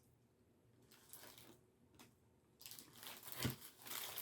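Faint crinkling of takeout food packaging being handled while barbecue sauce is opened and poured, starting after a couple of seconds of near silence and growing louder near the end, with a soft thud partway through.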